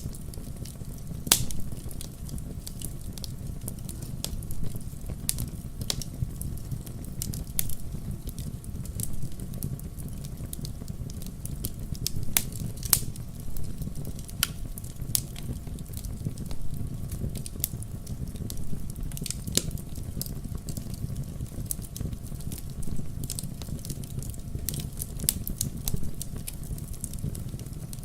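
Wood fire crackling in a fireplace: irregular sharp pops and snaps over a steady low rumble of the burning, with a louder pop about a second in.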